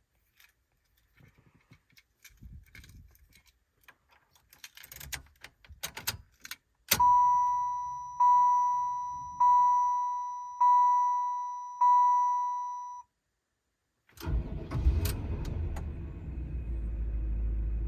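Keys jangling and clicking, then a car's dashboard warning chime ringing five times about a second apart. After a short pause the 1995 Chevrolet Impala SS's LT1 V8 cranks and catches on a cold start, settling into a steady idle.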